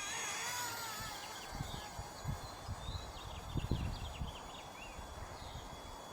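The high, wavering whine of a Blade MSR-X micro helicopter's small electric motors and rotors dies away within the first second. Then comes a run of irregular low knocks and light ticks, densest a little past the middle.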